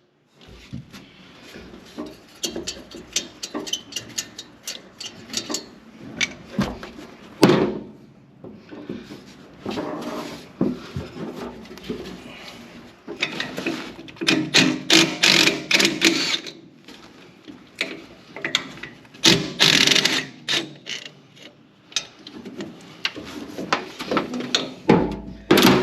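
Hand ratchet wrench clicking in bursts of quick strokes, with clanks of tools on metal, as fittings on a turbocharger drain line are loosened.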